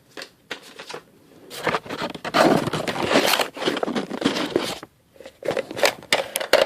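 Rustling and scraping handling noise for a few seconds, followed near the end by a quick series of sharp clicks and taps.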